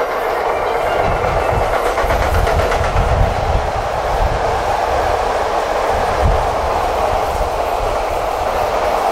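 Sotetsu 12000 series electric train running past close by: a steady rolling rumble of wheels on rail with a clickety-clack of low thumps over the rail joints, heaviest in the first few seconds.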